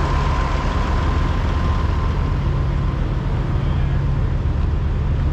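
Heavy diesel truck engine idling steadily, a low even drone, with a faint thin whine that fades out about halfway through.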